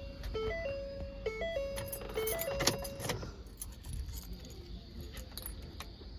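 A car's electronic warning chime playing a short repeating tune of beeps, stopping about halfway through, while keys jingle and click.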